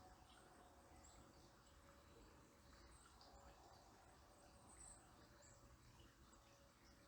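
Near silence: faint outdoor ambience with scattered, faint, high-pitched bird chirps.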